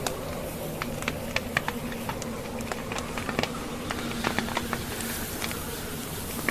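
Logs crackling in a fireplace: irregular sharp pops and snaps, several a second, over a steady rush of blizzard wind.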